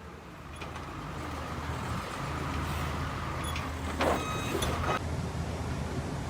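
Sawmill lumber stacking line running with a steady low hum of compressed air and machinery. About four seconds in, a brief hiss with a thin whistling tone lasts about a second.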